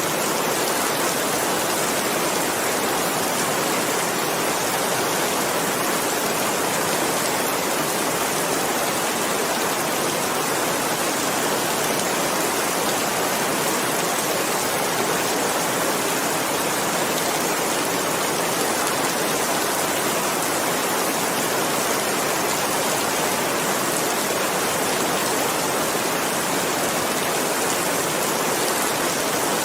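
Steady heavy rain, an even hiss of falling drops that does not change.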